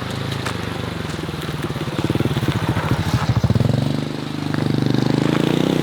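Small motorbike engine running close by, pulsing quickly, then rising in pitch about two-thirds of the way through and holding there.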